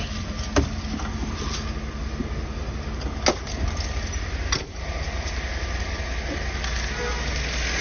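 2012 Chevrolet Tahoe's V8 idling cold, a steady low rumble, with no lifter tick to be heard after a new Melling oil pump was fitted. A few sharp knocks come through, the loudest about three seconds in and another near the middle.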